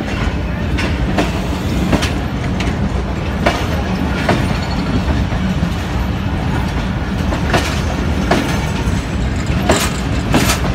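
Pakistan Railways passenger coaches of a departing express train rolling past on the track: a steady low rumble with irregular sharp clacks as the wheels pass over the rail joints.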